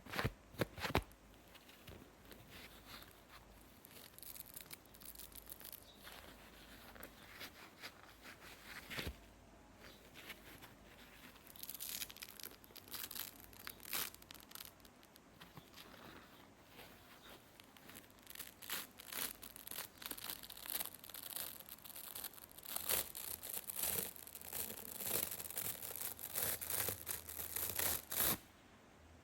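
A sponge being worked by hand, giving a run of crackling, tearing sounds. The crackles grow denser through the second half and stop suddenly near the end.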